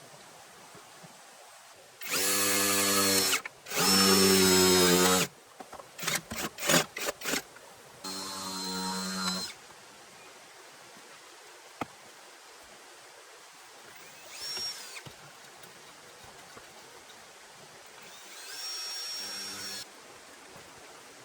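Power drill motor running in short bursts: two loud runs of about a second each, a quick series of trigger taps, another run, then two fainter, shorter runs near the end. Each run starts with a quick spin-up to a steady whine.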